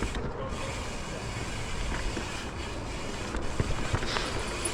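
Mountain bike rolling along a dirt trail: steady tyre and wind rumble on the helmet microphone, with a few sharp knocks of the bike rattling over bumps near the end.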